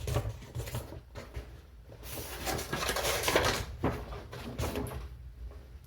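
Paper and packaging from a beauty subscription box being handled: a few spells of rustling with some soft clicks and taps, the loudest rustling a little past the middle.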